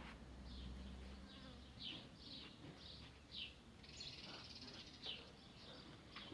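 Faint, repeated short high chirps of small birds, a few a second apart, with a brief buzzing sound about four seconds in.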